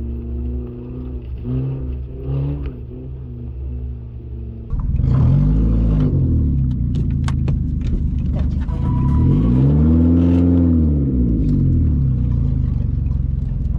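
Rallycross car engines running: a steady engine note for the first few seconds, then suddenly louder from about five seconds in, with the engine revving up and back down twice as the cars race on the muddy track.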